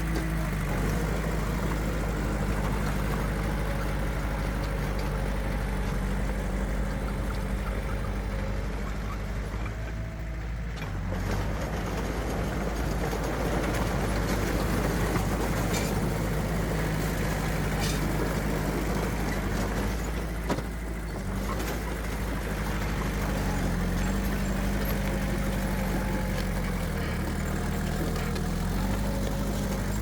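Heavy diesel earthmoving machinery running steadily, its engine pitch shifting a little as the revs change, with one sharp knock about two-thirds of the way through.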